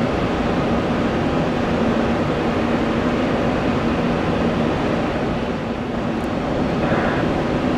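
Jet airliner engines running steadily: a constant rushing noise with a steady low hum.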